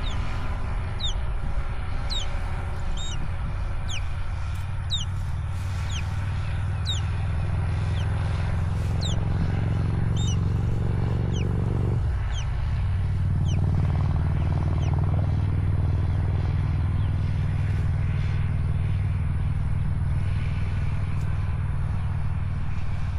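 A steady low rumble, with short, high, falling bird chirps about once a second through the first half, thinning out after that.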